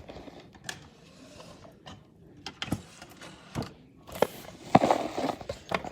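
Scattered clicks and knocks of small plastic toys and props being handled and moved, with a louder rustling scrape near the end.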